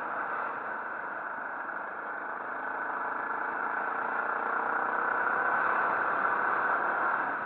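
Motorcycle engine running while riding, mixed with heavy wind and road noise. The sound grows louder and the engine note rises slightly from about halfway through.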